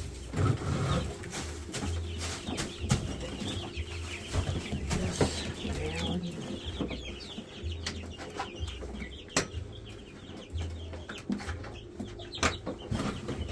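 Young broiler chicks cheeping, with scattered knocks and clicks.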